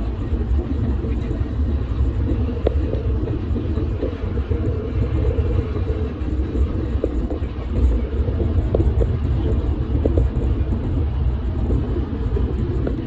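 Electric golf cart riding along a park path: a steady low rumble from the moving cart, with scattered small knocks and rattles.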